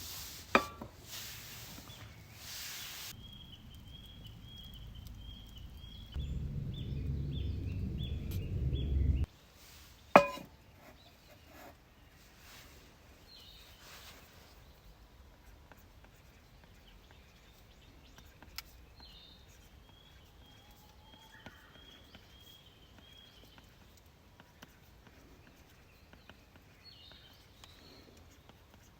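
Quiet outdoor sounds: a bird calls in two runs of short, evenly repeated high notes. A low rumble is heard for a few seconds, then a single sharp knock about ten seconds in.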